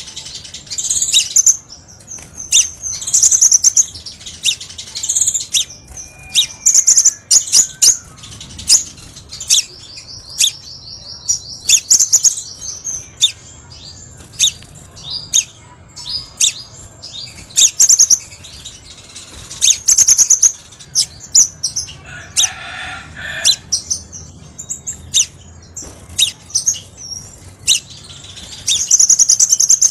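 Crimson sunbird song: rapid high-pitched chirps, sharp notes and trills, with a longer, even trill about ten seconds in.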